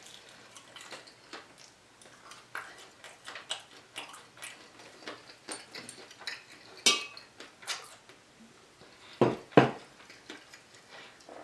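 Close-up eating sounds of crispy fried food being bitten and chewed: scattered small crunches and clicks, with two louder knocks about nine seconds in.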